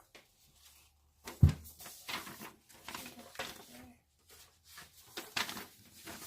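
Paper instruction sheets and packaging being handled: a run of short rustles and crackles, with one loud thump about a second and a half in.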